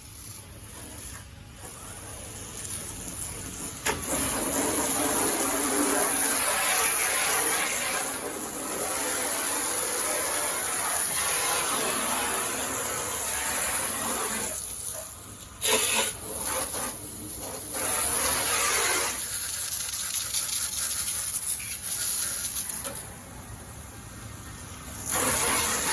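Water spray rinsing dust off a car's bodywork: a steady hissing spray that picks up about four seconds in, cuts out briefly around the middle and eases off for a few seconds near the end before starting again.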